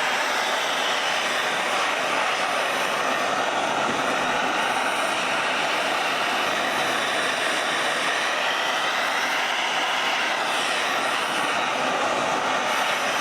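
Gas torch burning with a steady roar, heating a steel vise slide and jaw to bake on an oil finish.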